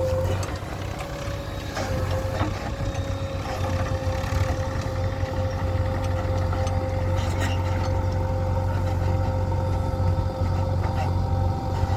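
Heavy diesel machine engine running steadily, a low hum with a constant whine above it and a few light knocks.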